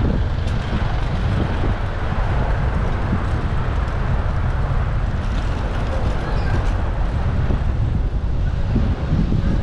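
Steady wind rumble on a bicycle-mounted action camera's microphone while riding, over the noise of road traffic.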